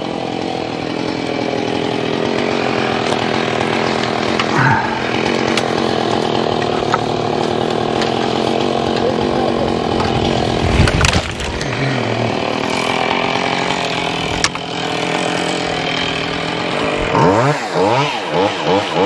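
Small chainsaw running steadily under load as it cuts, with a heavy thump about eleven seconds in. Near the end the throttle is blipped, the engine revving up and down about twice a second.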